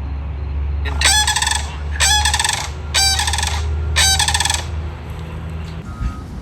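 Sandhill cranes calling: four rolling, rattling bugle calls about a second apart, each about half a second long, over a steady low hum.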